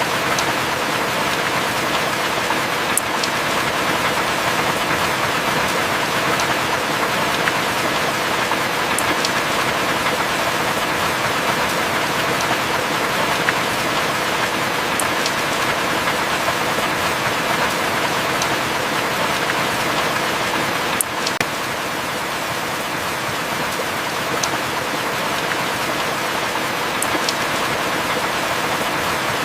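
Heavy rain falling steadily, a dense even hiss with occasional sharp drip taps scattered through it.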